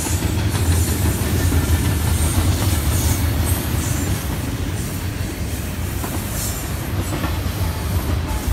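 A long CSX container freight train rolling past: a steady low rumble of wheels on rail, with brief high-pitched squeals from the wheels now and then.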